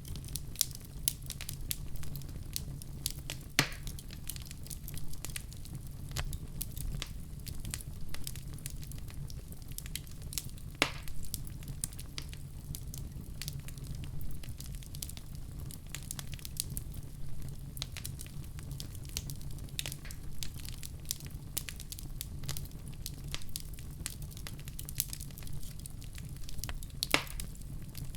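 Wood fire crackling in a fireplace: a constant low rumble of the flames with dense, irregular snaps and pops, three sharper pops standing out, at about 4, 11 and 27 seconds in.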